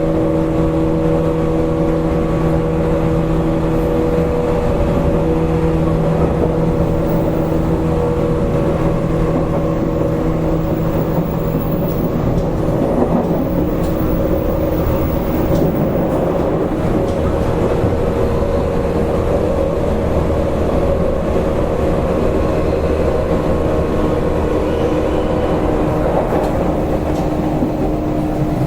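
Running noise inside a JR East 185 series electric multiple unit motor car at speed: a continuous rumble of wheels on rail with a steady hum of several tones, which fades about halfway through and comes back near the end.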